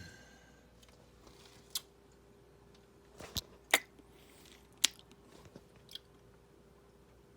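A person chewing a crunchy snack: a handful of sharp crunches at irregular intervals, the loudest a little past the middle. A faint steady hum runs underneath from about a second in.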